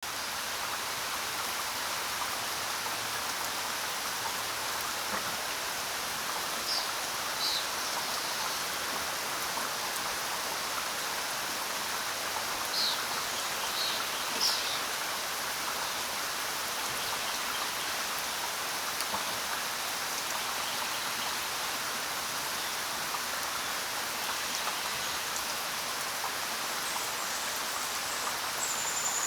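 Steady rain falling, with a few brief bird chirps a handful of seconds in, again around halfway through, and once at the very end.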